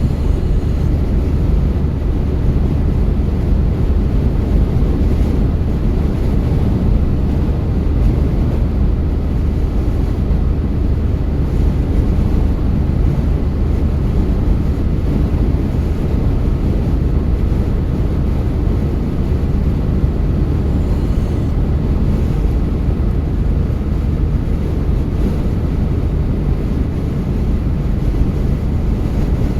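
A car driving at a steady pace: an even, low rumble of tyres and engine with no changes.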